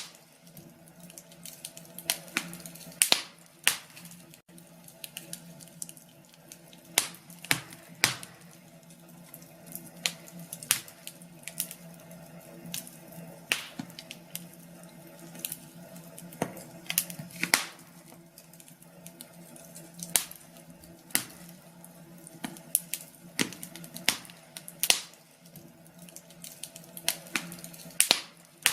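Wood fire crackling in a fireplace: irregular sharp pops and snaps, some much louder than the rest, over a steady low hum.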